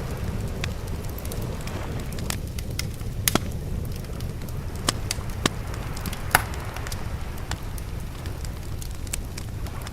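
Wood fire crackling, with sharp irregular pops scattered throughout, the loudest a little after six seconds in, over a steady low rumble of sea waves.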